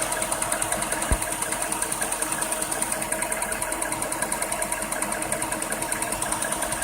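2008 Jaguar XJ8L's 4.2-litre V8 idling with a loud, fast, even ticking of about seven ticks a second over the engine's running sound. There is one short low thump about a second in.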